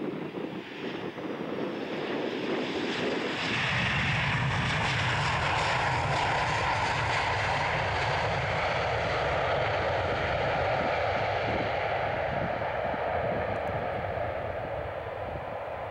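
Boeing 737-700 twin-jet airliner flying past, its CFM56 turbofans swelling to a loud, steady jet rush with a whine about three to four seconds in, then slowly fading away.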